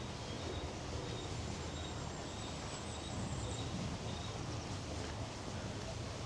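Outdoor ambience: a steady background noise with a faint high chirp repeated about twice a second.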